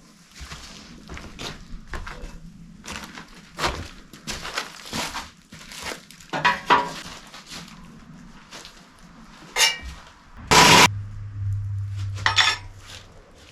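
Wrench and hand tools clinking and knocking against metal while working loose the exhaust manifold bolts: a string of short, sharp metallic clinks, with a louder burst about ten and a half seconds in.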